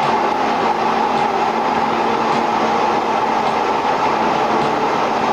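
Steady jet engine noise from the Frecce Tricolori's Aermacchi MB-339 jet trainers, single-turbojet aircraft, as the formation gets airborne. A faint tick recurs about once a second.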